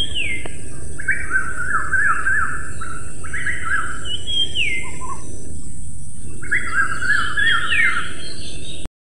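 Small songbirds calling in repeated phrases. Each phrase is a short falling whistle followed by a fast chattering trill, heard three times, over a steady high hiss. It cuts off abruptly near the end.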